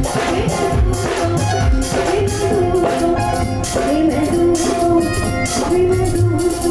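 Live Punjabi pop music: a woman singing a wavering melodic line over a steady drum beat and bass.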